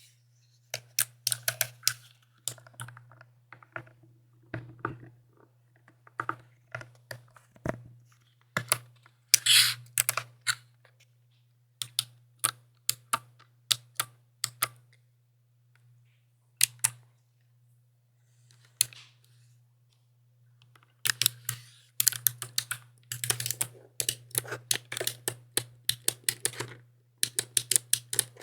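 Typing on a mechanical keyboard: runs of quick key clacks broken by short pauses, with only scattered single keystrokes for a few seconds past the middle.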